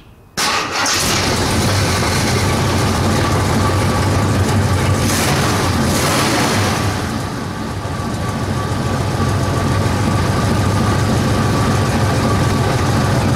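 AMC 401 V8 engine starting about half a second in, then running at a steady idle through its newly fitted Hedman headers and exhaust. It is being warmed up so the header bolts can be tightened again.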